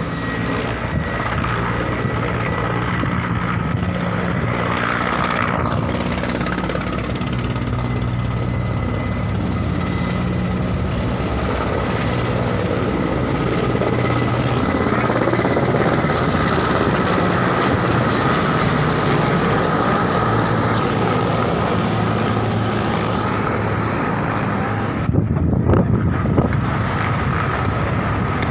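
Helicopter running loud and steady: a dense rotor hum with a continuous high turbine whine on top.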